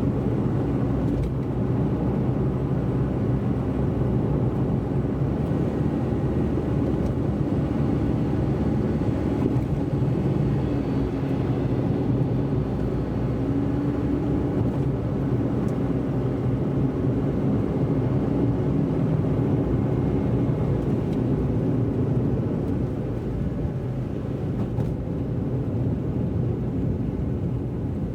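Car driving on a wet road: a steady rumble of engine and tyre noise, easing slightly in loudness near the end.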